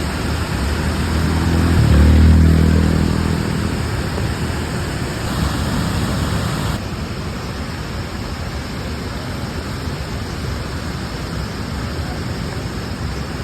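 Steady rush of wind and road noise from a moving motorcycle, with an engine hum that swells briefly about two seconds in.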